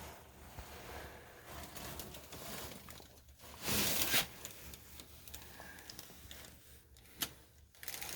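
Rustling and scraping handling noises, with a louder rustle about four seconds in and a sharp click near the end.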